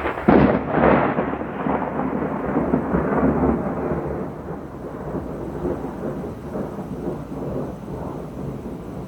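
A close thunderclap: a sharp crack about a third of a second in, then a long rolling rumble that slowly dies away over several seconds. It follows a bright lightning flash in a storm that has not yet brought rain.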